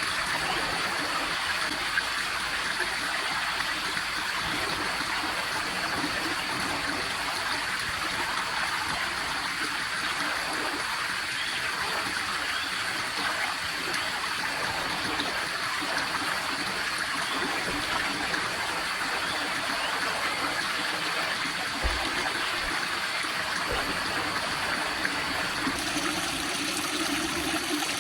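Running water from a stream, a steady rush, with a thin, steady high tone above it.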